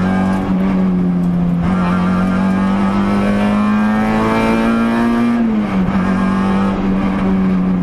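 Peugeot 106 rally car's four-cylinder engine under hard driving, heard from inside the cabin. The note holds steady, climbs slowly from about two seconds in, then drops sharply at about five and a half seconds and runs steady again.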